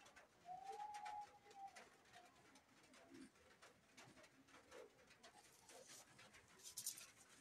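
Near silence with a faint bird cooing in the background, one drawn-out coo about a second in, and a few soft clicks and a short rustle near the end.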